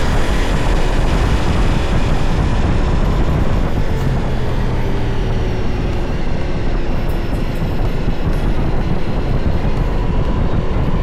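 Motorcycle riding at speed: a steady, loud rush of wind over the microphone with the engine running underneath.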